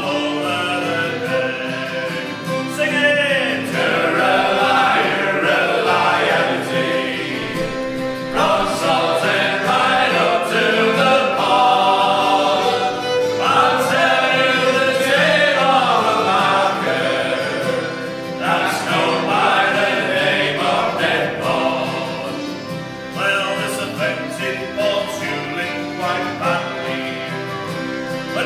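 Folk group singing a sea shanty together, several voices in sung phrases over instrumental accompaniment.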